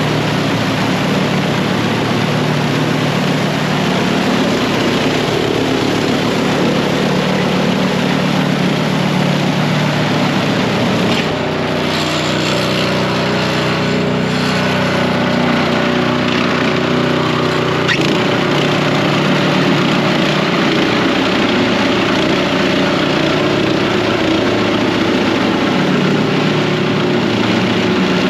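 Gas snow blower engine running steadily, its pitch shifting for a few seconds partway through.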